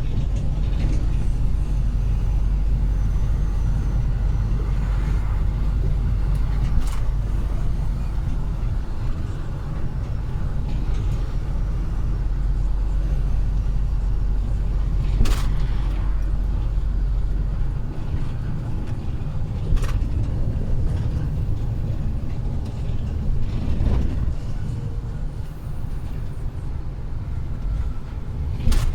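Heavy truck driving along: steady low engine and road rumble, with a few sharp clicks or knocks now and then.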